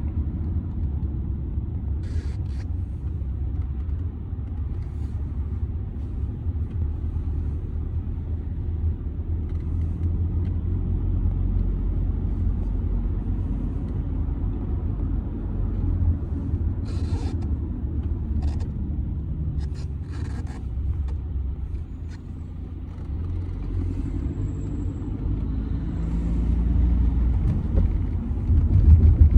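Audi A6 C6 2.0 TDI four-cylinder diesel car on the move: steady low engine and road rumble, with a few brief sharp clicks or knocks. The rumble grows louder near the end.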